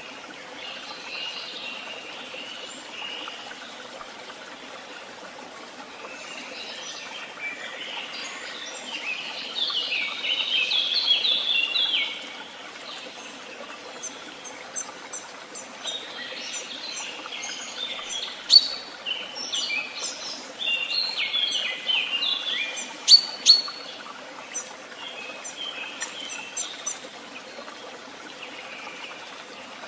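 Songbirds singing and calling, short chirping and trilling phrases overlapping one another. A fuller, louder phrase comes about ten seconds in, and a run of sharp, high notes in the second half, over a steady faint hiss.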